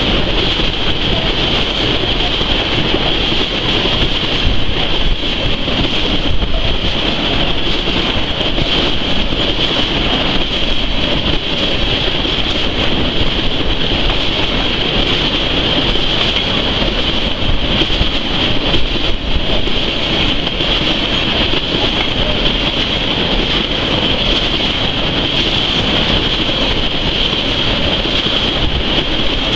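Freight train of tank cars passing close by at speed: steady rolling clatter and rumble of steel wheels on the rails, with a continuous high-pitched tone over it.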